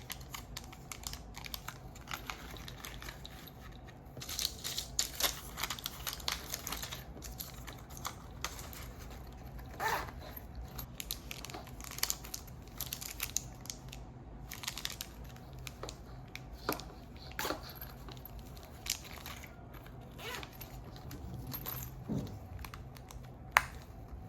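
Crinkling and rustling of something being handled, with scattered small clicks and taps. The crinkling is busiest from about four to seven seconds in, and there is one sharp click near the end.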